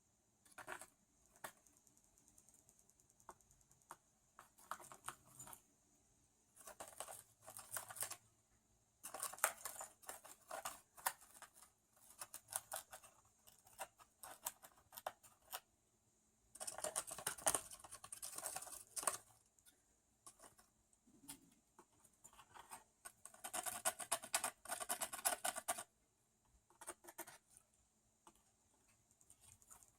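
Budgie's beak biting and shredding cardboard: spells of rapid, crackly clicking, each a second or a few seconds long with pauses between, the longest near the middle and toward the end.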